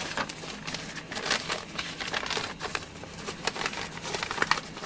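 Irregular rustling and light clicking from handling in an airliner cockpit, as switches and panels are worked.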